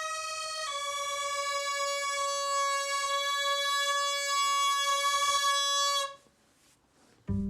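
Tsambouna, the Greek goatskin bagpipe, sounding one long reedy note that steps slightly lower about a second in and cuts off suddenly after about six seconds. Near the end a different piece of music with a low plucked string bass begins.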